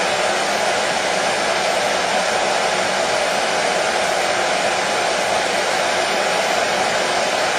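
Hair dryer running steadily: a constant fan-and-air rush with no change in pitch or level, used as white noise to soothe a colicky baby to sleep.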